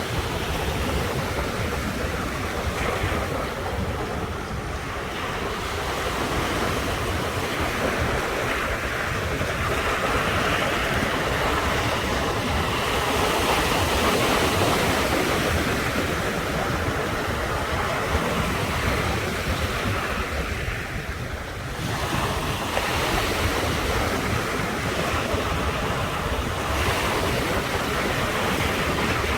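Ocean surf breaking on the shore in a continuous wash, swelling and easing as each wave comes in, with brief lulls about four seconds in and again about twenty seconds in.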